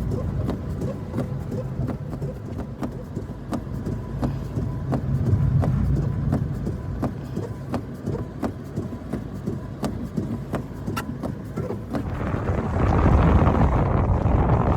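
Storm wind rumbling low against the microphone, with scattered sharp ticks and clicks throughout. Near the end a stronger gust rises into a broad rushing noise.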